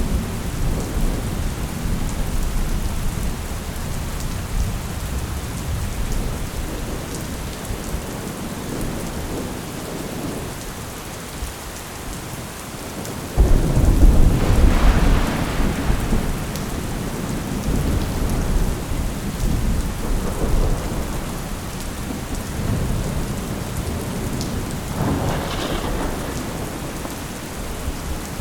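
Thunderstorm: steady rain falling on a surface with rolling thunder. A loud thunderclap breaks in suddenly about halfway through and rumbles away, and a smaller rumble comes near the end.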